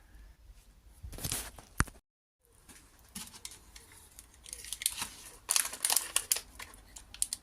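Rustling, crinkling and small clicks of things being handled at close range, getting busier in the last few seconds, with a brief total dropout about two seconds in.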